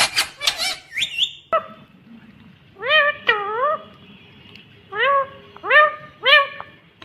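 Ringneck parrot calling: a quick run of harsh, squawky calls in the first second and a half, then, after a short pause, about five separate whistled calls, each rising and falling in pitch.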